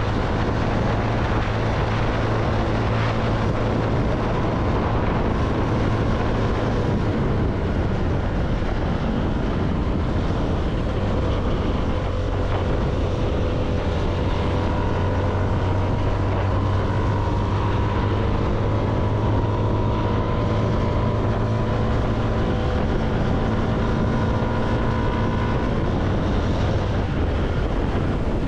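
CFMoto motorcycle engine running at a steady cruising pace, with wind rushing over the microphone.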